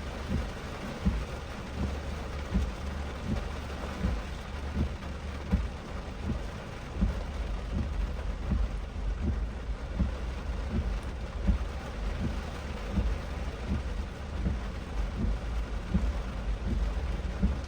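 Heavy rain pattering on a moving car, heard from inside, with many irregular low thumps of heavy drops over a steady low road rumble.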